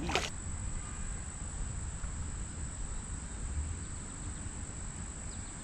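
Insects calling steadily in one continuous high-pitched tone over a low rumble, with a short cluster of sharp clicks at the very start.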